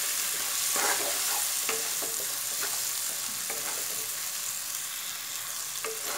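Potatoes and onions frying in mustard oil in a wok, sizzling steadily, while a wooden spatula stirs and scrapes them around the pan in strokes about once a second.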